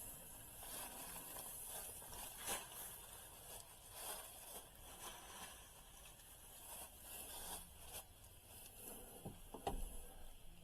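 Faint rustling and scraping with a few sharp knocks, the loudest near the end.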